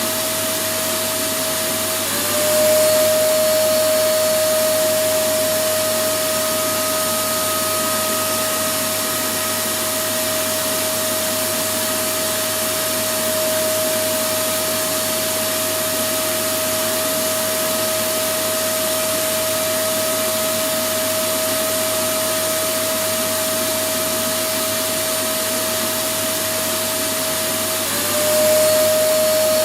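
Electric vacuum cleaner running steadily: a continuous rushing noise under a steady whine. The whine dips briefly and comes back a little louder about two seconds in and again near the end.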